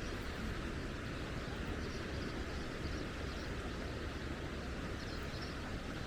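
Steady outdoor ambience: an even wash of noise with a low rumble underneath, unchanging throughout.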